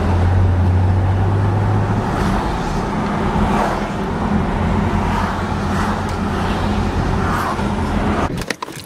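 Car engine and road noise as the car drives off, with a strong low hum for the first two seconds. The sound cuts off abruptly near the end.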